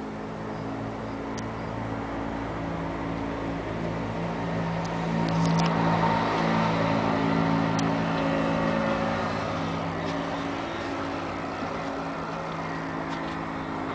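A vehicle engine running steadily, growing louder about six seconds in and then easing off, with a few faint clicks.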